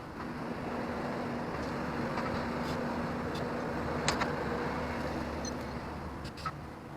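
Bobcat T770 compact track loader's diesel engine running steadily, with a few sharp knocks, the sharpest about four seconds in.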